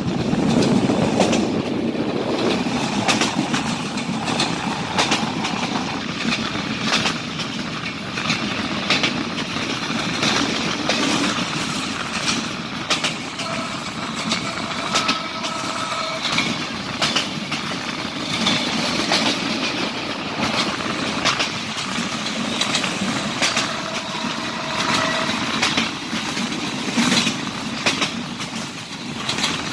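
A passenger train running at speed, heard through the open window of a coach: a steady rumble and rush of air with irregular clicks and clatter from the wheels on the track.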